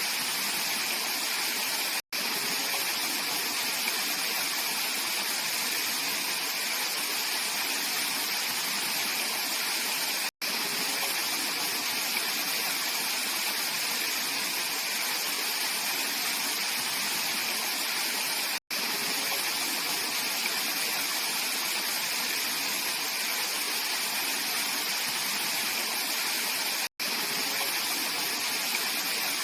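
Mountain valley stream rushing steadily over rocks, a constant, even flow of water. The sound cuts out for an instant about every eight seconds.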